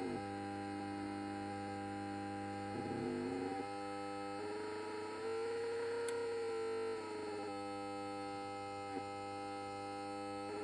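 Amplifier, likely a car audio amplifier, giving off a steady electrical hum and buzz with a stack of whining tones whose pitch wavers and slides every few seconds. These are the strange noises of a faulty amplifier.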